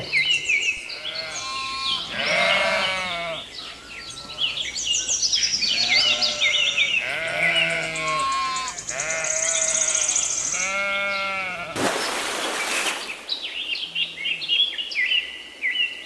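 Sheep bleating over and over, several calls one after another, with high short chirps running throughout. A brief hiss comes about three-quarters of the way through.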